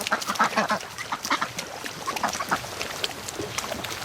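Flock of Pekin ducks quacking, many short quacks overlapping.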